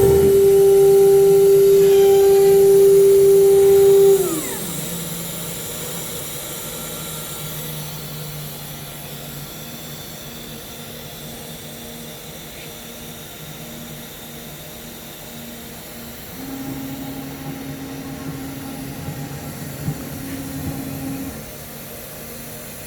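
CNC router spindle running with a steady high whine, then winding down with a falling pitch about four seconds in. A quieter machine hum carries on, and a lower steady whine comes in for several seconds near the end.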